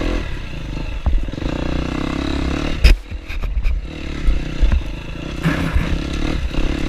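KTM dirt bike engine running at low trail speed, with scraping and clattering and one sharp loud knock about three seconds in, as drooping branches brush and strike the rider.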